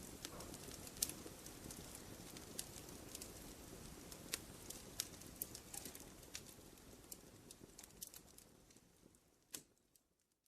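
Wood fire crackling in a fireplace: scattered sharp pops and crackles over a soft low rush, fading out near the end.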